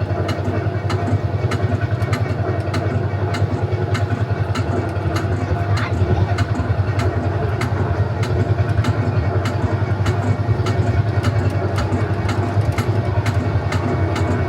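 Tractor ride vehicle's engine chugging steadily with an even, rapid pulse as it carries riders along the track.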